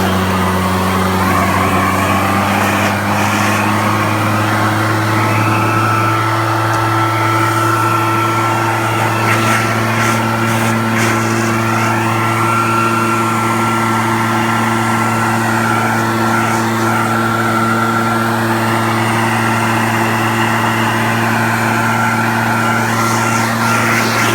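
Gas backpack leaf blower (RedMax) running steadily, its engine note holding an even pitch, with the rush of air shifting as it is swept over a wet truck to blow it dry.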